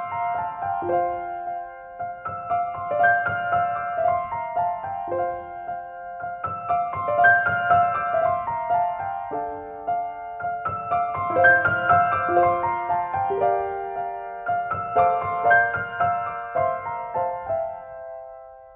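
Background music: a gentle piano melody with sustained notes that fades out near the end.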